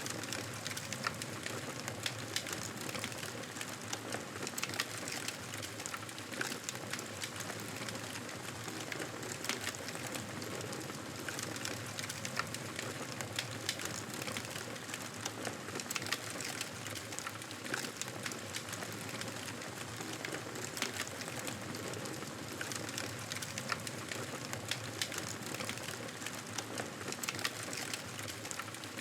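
Campfire crackling: a steady hiss of burning wood studded with frequent small, sharp pops and snaps.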